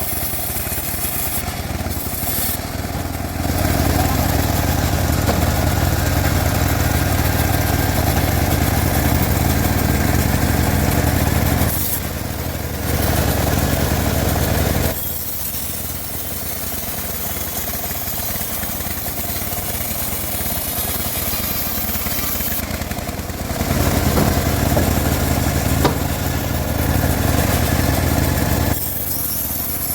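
Home-built band sawmill running steadily, its motor hum swelling louder in three stretches, about 4 to 12 seconds in, briefly around 13 to 15 seconds, and again near the end, as the blade works through a teak log.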